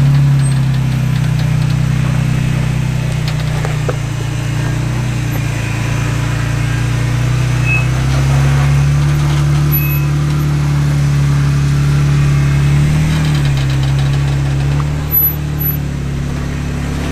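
Jeep engine running at low revs, its pitch rising and falling as the throttle is worked. There is a brief knock about fifteen seconds in.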